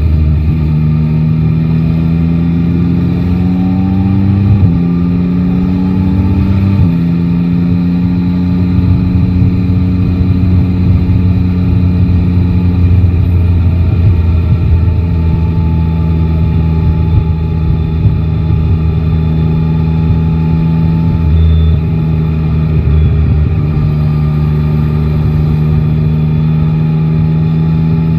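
Yamaha Tracer 9 GT's inline three-cylinder engine pulling away, its pitch rising through two upshifts about four and a half and seven seconds in, then running at a steady cruise.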